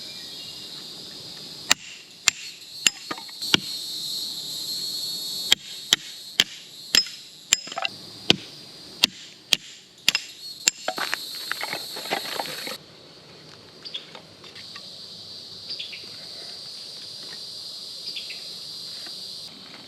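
Steady drone of cicadas, with a series of sharp snaps and knocks over the first two-thirds as firewood is broken and handled to start a campfire.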